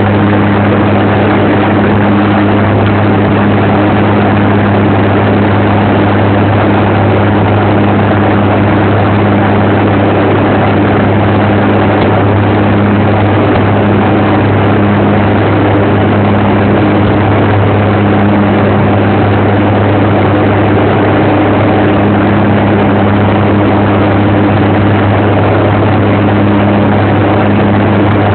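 Aircraft engines droning steadily and loudly, a low hum holding one pitch with no rise or fall.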